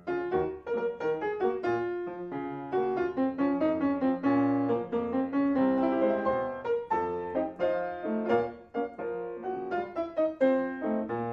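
Solo piano accompaniment playing a lively run of notes, a silent-film score.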